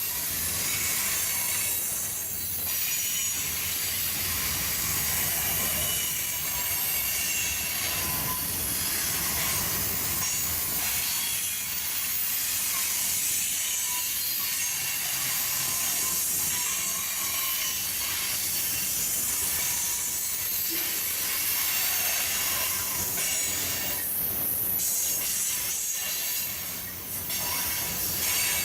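Freight train cars rolling past on steel wheels, a steady rumble with high-pitched wheel squeal and hiss from the rails.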